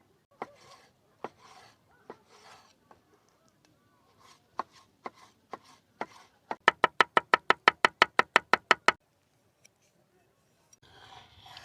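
Knife chopping food on a cutting board: a few scattered cuts, then a quick, even run of loud strokes at about seven a second for two seconds.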